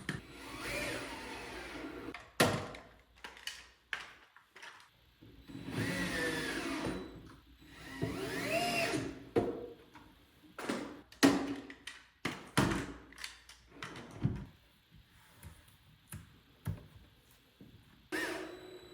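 Cordless drill-driver driving screws in several short runs, its pitch rising and falling with each squeeze of the trigger, between sharp knocks and clicks of wood and hardware being handled.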